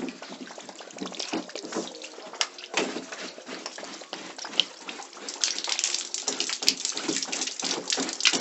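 Water running and splashing in an uneven, spattering rush.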